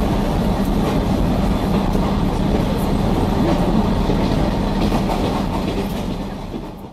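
Train running at speed: a steady rumble of wheels on rails with a few faint clicks, fading out near the end.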